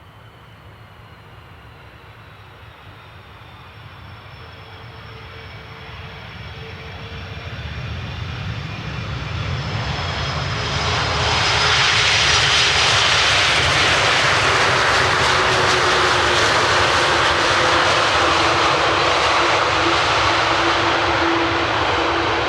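Jet airliner's engines growing steadily louder for about ten seconds, with a high whine over a rising rush, then holding a loud, steady roar of jet noise as the aircraft passes close by.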